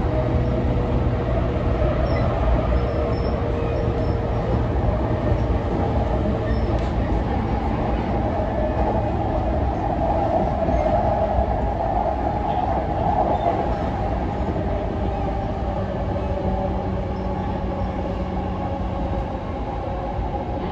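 Running noise inside a JR East E233 series 0 electric train car between stations: a steady rumble of wheels and running gear, with a faint held whine in the first few seconds.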